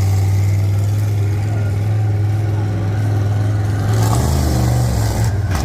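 Monster truck's Chevrolet V8 engine running hard and steady on a jump run, its note shifting about four seconds in.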